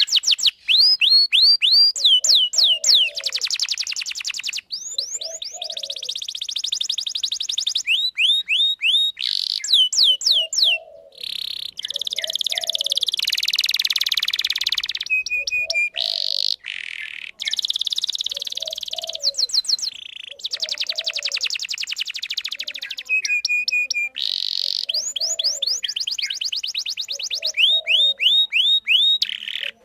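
Domestic canary singing a long, continuous song of fast trills and rapidly repeated chirps, with short breaks between phrases.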